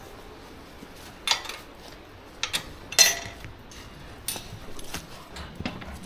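Footsteps on a woodland path: a series of sharp crunches and clicks, roughly a second apart, the loudest about three seconds in.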